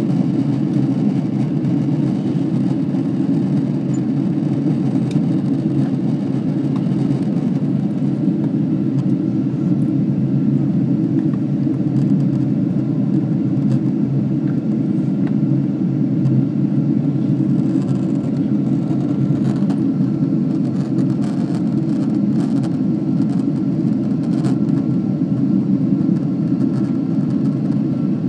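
Jet airliner cabin noise in flight: a steady, even low rush of airflow and engine sound that does not change.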